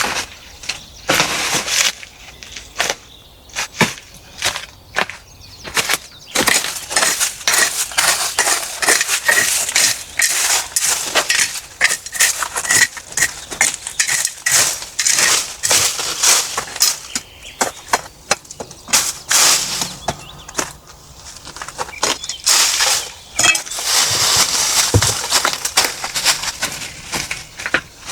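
Dense, irregular crunching and cracking, many sharp snaps in quick succession, thinning out briefly a few seconds in and again around the twenty-second mark.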